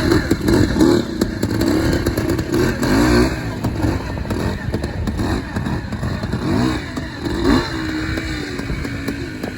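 Classic trials motorcycle engine being blipped and revved in short bursts, its pitch rising and falling over and over, then settling to a steadier note near the end.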